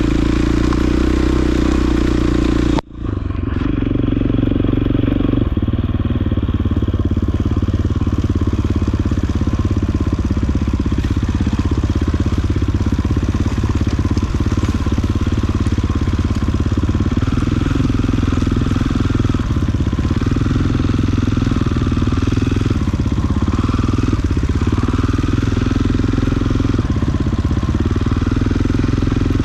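Off-road vehicle engine running steadily while riding a rough trail; the sound cuts out abruptly for a moment about three seconds in, then returns.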